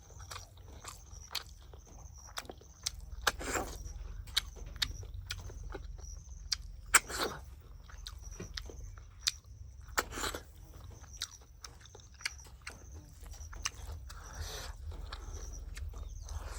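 Close-up eating sounds: chewing and biting with many sharp clicks, and four louder, longer mouth noises spaced three to four seconds apart.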